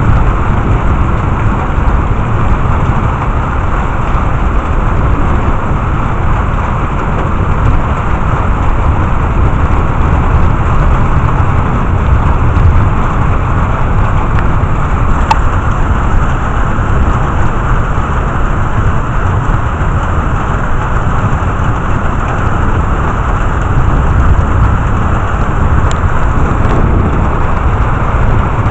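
Steady heavy rain of a thunderstorm, with a continuous low rumble underneath and a couple of faint clicks.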